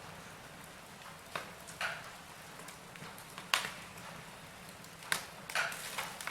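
Wood fire burning in a fireplace: half a dozen sharp pops and crackles at uneven intervals over a soft steady hiss.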